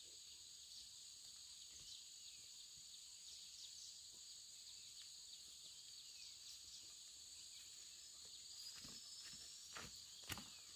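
Faint, steady, high-pitched insect chorus of crickets or cicadas, with a few soft thumps near the end.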